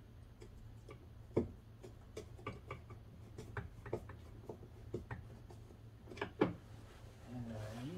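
Irregular small clicks and ticks, with a couple of louder knocks, from hand-driving a small Phillips head screw into car door trim, over a low steady hum.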